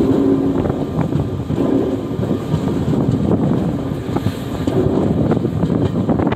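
Indian passenger express train running at speed, heard from on board: a steady rumble of wheels on rail with irregular clatter, and wind buffeting the microphone.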